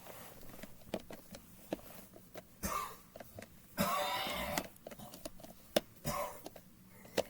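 Light clicks and taps of a screwdriver and the plastic belt cover of an Oreck upright vacuum being handled while the cover screw is put back in. Three short rasping bursts break in, the longest about four seconds in.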